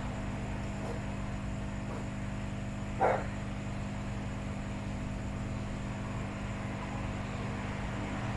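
Steady electrical hum, with one short bark-like sound, like a dog's, about three seconds in.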